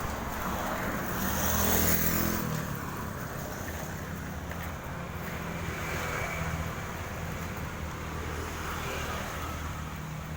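Road traffic: motor vehicles running past, one louder pass about two seconds in over a steady low engine hum.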